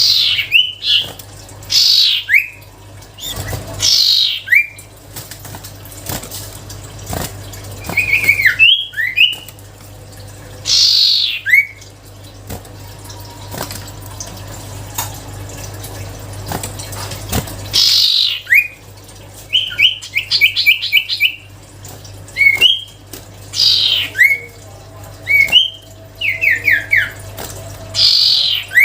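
Common iora (cipoh) singing: a series of loud, clear whistles, each sliding downward, repeated every second or two, with a quick run of short repeated notes about twenty seconds in.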